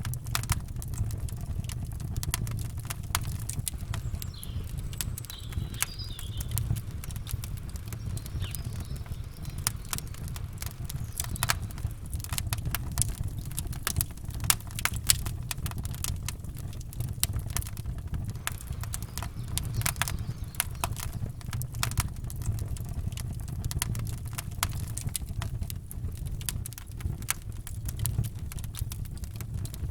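Campfire crackling, with frequent sharp pops over a steady low rumble. Faint bird chirps about five to nine seconds in.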